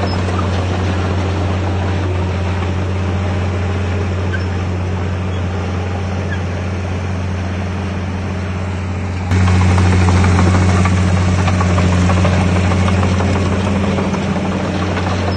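Heavy earthmoving machinery's diesel engine running steadily with a low drone, getting suddenly louder about nine seconds in.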